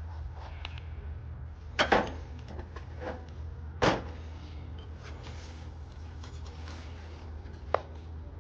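Three short sharp knocks of hard objects being handled, about two, four and nearly eight seconds in, the middle one the loudest, over a steady low hum.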